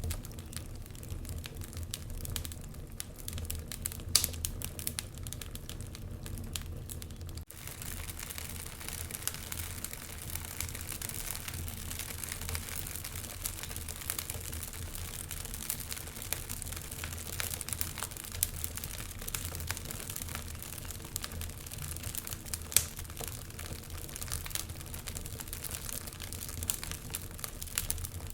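Wood fire burning in a fireplace, crackling with a dense run of small snaps and an occasional sharper pop. A soft hiss sits underneath and grows louder about seven seconds in.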